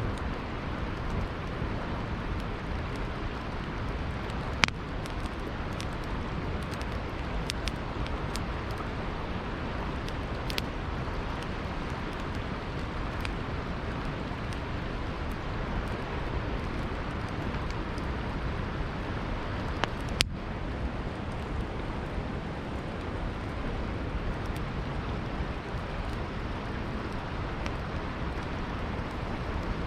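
Campfire crackling, with scattered sharp pops of burning wood, the loudest about twenty seconds in, over the steady rushing of a river.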